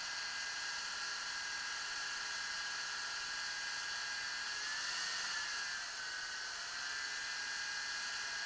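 Car engine idling with a steady high whine over the running noise; the whine rises slightly about five seconds in, then dips briefly. The engine is running after its oil ran out.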